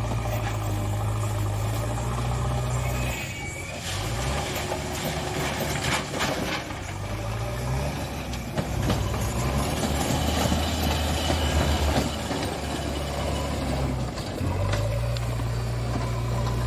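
A vehicle engine running with a steady low hum that shifts pitch a few times, with busier mechanical noise in the middle stretch.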